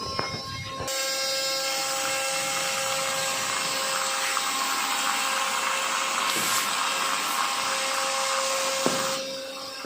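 Small DC motor spinning the toy airplane's propeller: a steady electric whine over a rush of air, switched on about a second in and cut off near the end, with a few clicks just before it starts.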